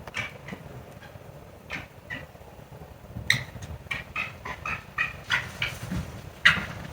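Foxes calling during a squabble: a run of short, sharp, high yelps, several a second, starting about three seconds in.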